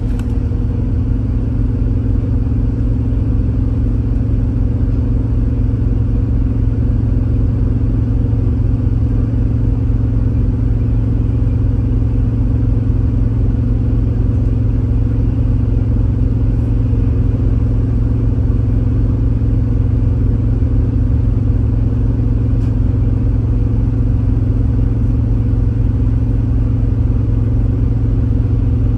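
Steady low hum of a train with a few fixed pitches, unchanging throughout.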